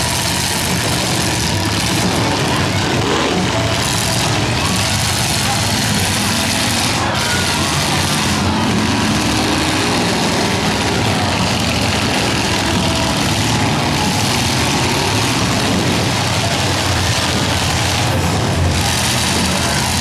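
Engines of several demolition derby cars running and revving together in a steady, loud din as the cars manoeuvre and ram each other.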